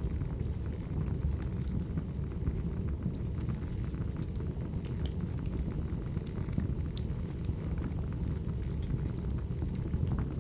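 Wood fire burning steadily: a low roar of the flames with scattered small crackles and pops.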